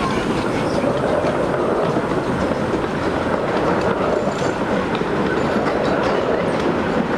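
A miniature railway train rolling past close by, its locomotive's tender and then its passenger carriages giving a steady rumble of wheels on track, with irregular clicks.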